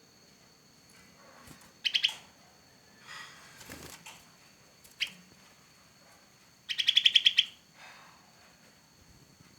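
Young cucak kelabu bulbul giving loud, sharp bursts of calls. There is a quick burst about two seconds in, a single sharp note around five seconds, and the loudest, a rapid run of repeated notes about seven seconds in.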